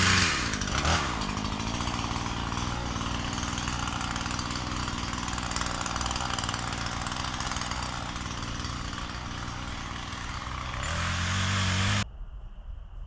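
Chainsaw engine dropping from high revs to a lower speed within the first second and running on. It revs up again near the end and then cuts off suddenly.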